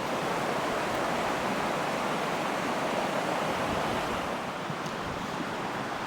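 River water rushing past, a steady even hiss of flowing water.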